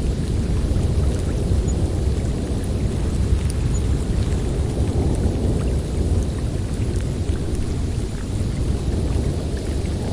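Snowstorm wind blowing steadily, a dense low rush with faint scattered ticks above it.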